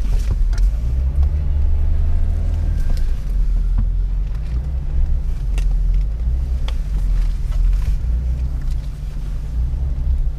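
Off-road 4x4's engine running at low revs as it crawls forward over a trail obstacle, a steady low rumble with a few brief sharp clicks and knocks.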